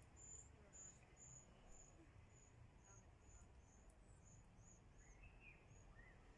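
Faint, high, thin bird chirps, about two short notes a second, with a couple of lower rising notes near the end.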